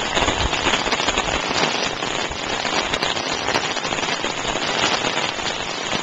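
Heavy rain falling steadily on wet asphalt, a dense even hiss with scattered small clicks of drops.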